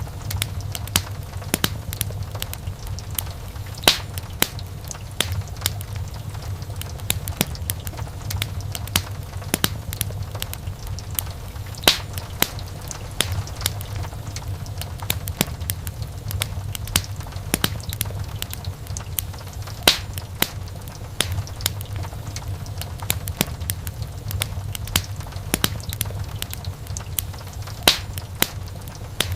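Wood fire in a fireplace crackling, with many sharp pops and snaps over a steady low rumble; a louder pop stands out about every eight seconds.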